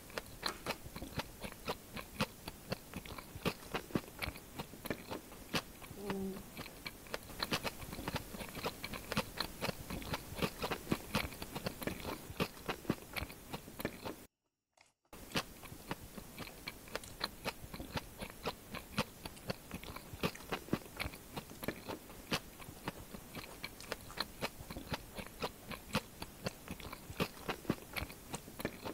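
Close-miked chewing and crunching of fried homemade chicken pakoras: a fast run of crisp clicks and crunches. The sound cuts out completely for under a second about halfway through.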